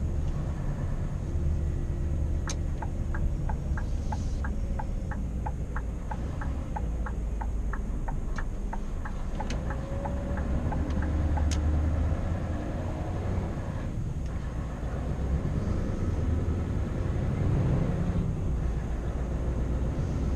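Scania R520's 16-litre V8 diesel running steadily while driving, a deep low drone. A regular ticking, about three ticks a second, runs over it from about two and a half seconds in to about nine and a half seconds in.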